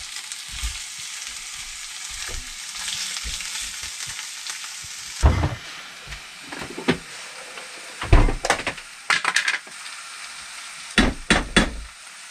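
Chicken breast and onions frying in a pan with a steady sizzle. A spatula knocks and scrapes against the pan in short clusters: about five seconds in, again from about eight to nine and a half seconds, and once more near the end.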